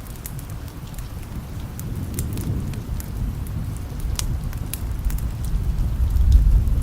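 Steady rain with scattered sharp drip ticks, and a low thunder rumble that builds through the second half and is loudest near the end.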